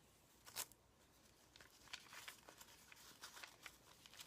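Faint rustling and crinkling of paper as the pages and tucked-in papers of a handmade journal are handled: one soft rustle about half a second in, then a run of small crinkles from about a second and a half on.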